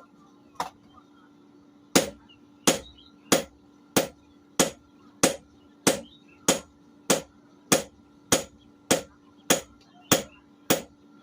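Hammer blows on hot steel at an anvil, forging a blade. There is one blow, a pause of about a second, then a steady run of blows about every 0.6 s, each with a short metallic ring.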